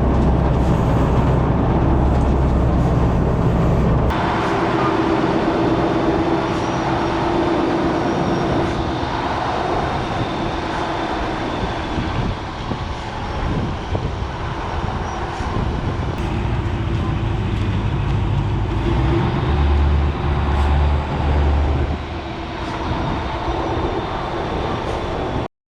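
Heavy diesel machinery running at a railway track work site: a deep, steady engine hum that changes abruptly about four seconds in to a denser mechanical clatter and drone, with some low pulsing near the end.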